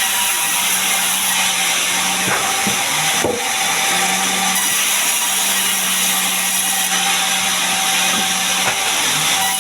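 Sawmill saw cutting a gmelina log into boards: a steady hiss of the blade running through the wood over the machine's steady hum, with a couple of brief knocks a few seconds in.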